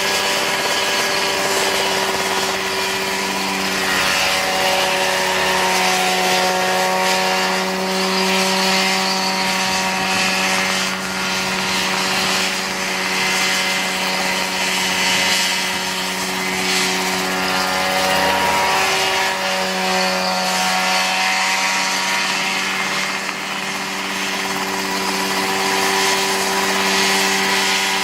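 Homemade Mosquito-style ultralight helicopter's engine running steadily at a constant pitch, which dips briefly and comes back up about two-thirds of the way through.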